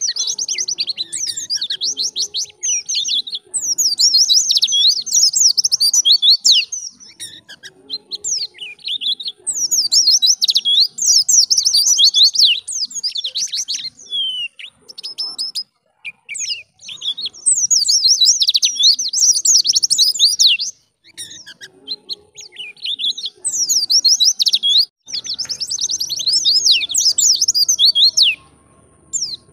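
White-eye (pleci) singing: rapid, high twittering phrases of quick rising and falling notes, coming in bursts of a few seconds with short pauses between.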